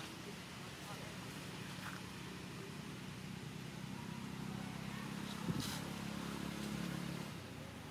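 A motor vehicle engine hums steadily, growing louder about halfway through and easing off near the end. A brief sharp click cuts in a little after the middle.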